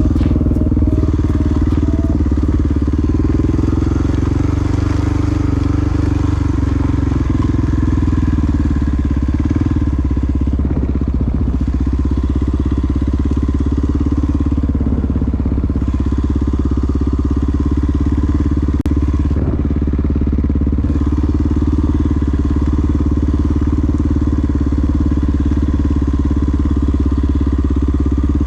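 Single-cylinder four-stroke dual-sport motorcycle engine running while riding, holding a steady, even speed with little change in pitch.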